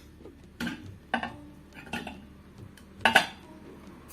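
Four light clinks and knocks of small hard objects being handled and set down, the loudest about three seconds in.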